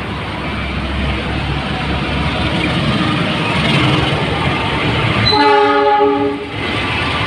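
Train passing close, its running noise building up, with one horn blast of about a second and a half starting about five seconds in and cutting off sharply.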